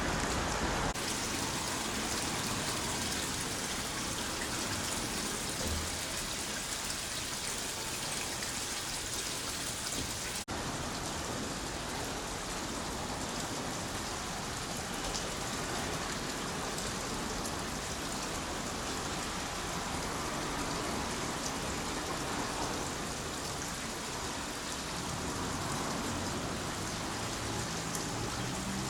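Steady rain falling, an even hiss of drops on surfaces, with a momentary break about ten seconds in.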